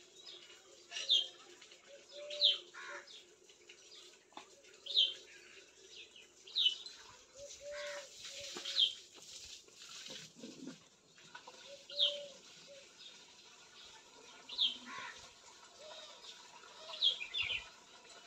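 A bird calling over and over, one short, sharp, high chirp every one and a half to three seconds, about nine times, with softer, lower short notes in between.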